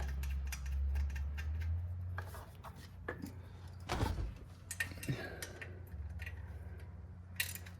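Small hand wrench clinking and clicking against metal as exhaust manifold fasteners are snugged down into the engine's aluminium head, irregular light knocks over a low hum.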